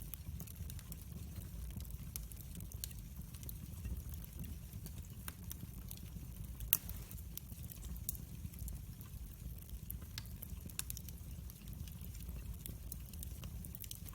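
Wood fire crackling in a fireplace: scattered sharp pops and snaps over a steady low rumble, with one louder pop a little before the middle.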